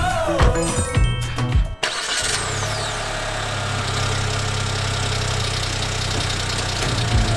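Background music cuts off about two seconds in and gives way to a vehicle engine running steadily at idle.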